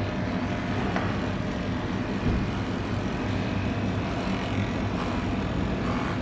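Electric dog-grooming clipper with a number 7 blade running steadily, a low even hum, as it shaves the dog's coat.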